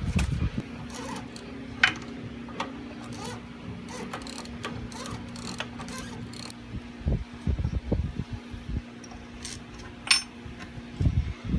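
Hand tools clinking and clicking on metal in a few sharp, scattered strikes while a sway bar is being unbolted, over a steady low hum that stops near the end.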